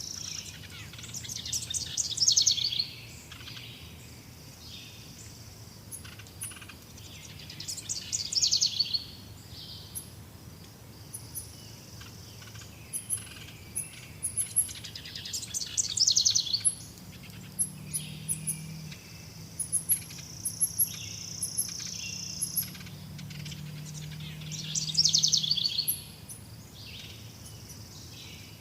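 Wild birds singing. One bird repeats a loud, rapidly trilled song phrase that falls in pitch, four times about six seconds apart, while others give short, very high chips throughout. A steady high buzz comes and goes between the songs.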